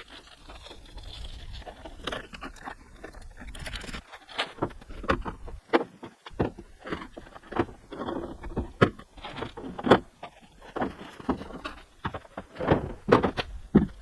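Low wind rumble on the microphone, then from about four seconds in a run of irregular knocks and clicks.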